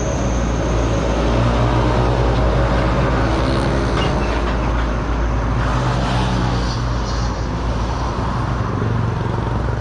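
A motor engine running steadily, with a continuous low hum.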